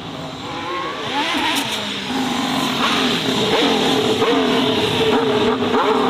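Racing car engine at full throttle, growing louder as it approaches, its pitch sweeping up and down several times.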